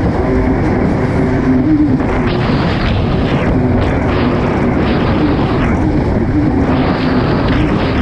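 Kawasaki STX-160 jet ski's four-stroke four-cylinder engine running hard at a steady pitch, with a hiss of spray and wind that swells and fades every second or so.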